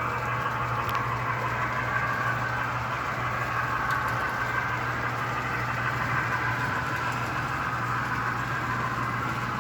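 Model steam locomotive running on its track: a steady motor whine and wheel rumble over a constant low hum.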